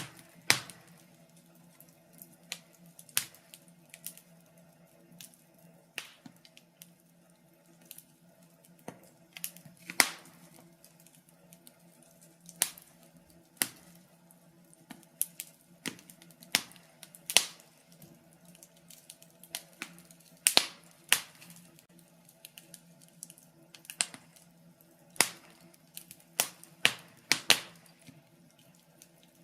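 Wood fire in a fireplace crackling, with sharp pops at irregular intervals, sometimes several in quick succession, over a faint steady low hum.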